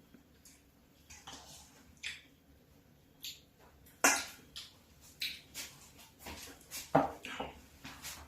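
Dishes and eating utensils clinking and knocking at a meal table: a scatter of light clicks, with two louder knocks about four and seven seconds in.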